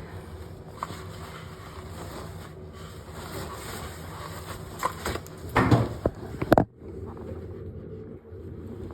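Objects being handled and knocked together, with a burst of clatters about five to six and a half seconds in, over a steady low hum.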